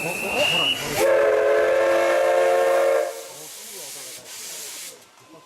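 Oigawa Railway's Thomas the Tank Engine steam locomotive (the C11 227) sounding its steam whistle: one chord of several tones, starting suddenly about a second in and held for about two seconds, the signal that it is about to depart. A hiss of steam follows for about two seconds. Before the whistle, a thin high whistle note fades out.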